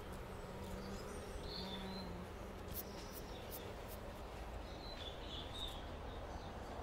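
Quiet outdoor ambience with a bird chirping briefly a few times, and a few faint sharp ticks in the middle.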